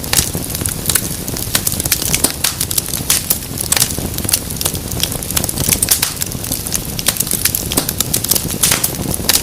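Wood fire burning in a fireplace: a steady low rush of flames with frequent irregular sharp crackles and pops throughout.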